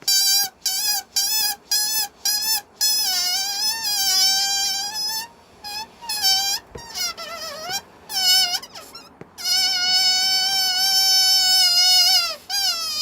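Air squealing out of a rubber balloon's neck, stretched tight as it is slowly let down: a high, whining squeal, first as a quick run of short squeaks, then as longer held notes, some of them wavering and dipping in pitch.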